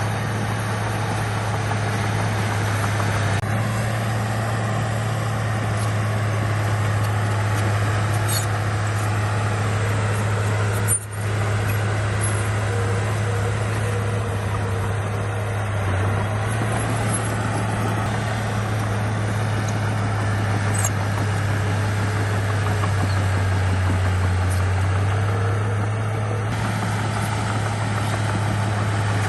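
Bulldozer's heavy diesel engine running steadily, with a brief dropout about eleven seconds in.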